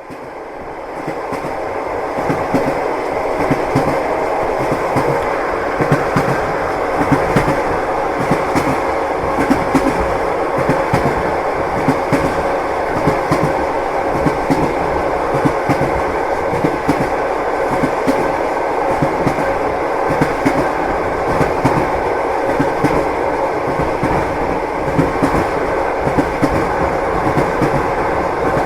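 Train wheels knocking over rail joints: a steady clickety-clack of repeated knocks over a continuous rumble of the moving train, fading in over the first couple of seconds.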